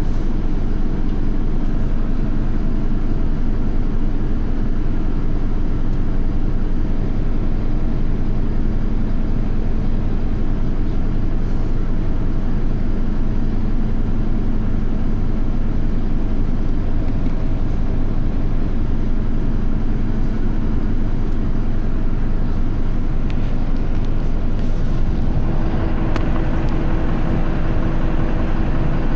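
Isuzu QDG-LV290N1 city bus's four-cylinder diesel running under way, heard from inside the bus. About 25 seconds in, the engine note rises and gets louder as the bus accelerates.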